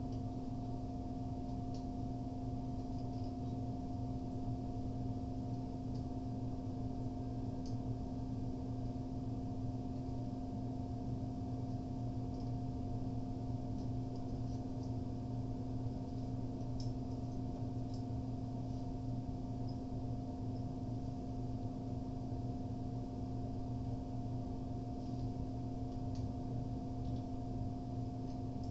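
A steady low hum holding several constant pitches, with a few faint, scattered clicks over it.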